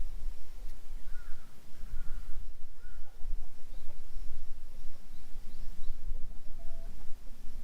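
Steady low rumble, with a few short, faint bird calls about one to three seconds in.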